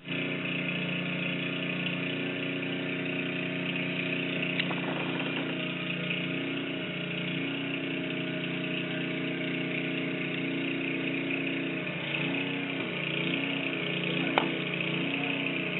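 Gasoline snowblower engine running on its own, unattended, with a steady note that begins to waver in pitch near the end. A single sharp click sounds shortly before the end.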